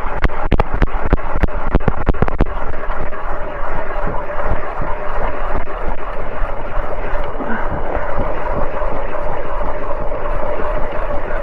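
Ice auger blades grinding down into thick river ice (over a metre), with a run of sharp clicks in the first couple of seconds, under steady wind buffeting the microphone.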